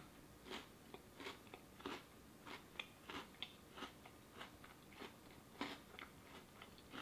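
Faint crunching of a chocolate-covered Oreo cookie being chewed: short crisp crunches, about two or three a second.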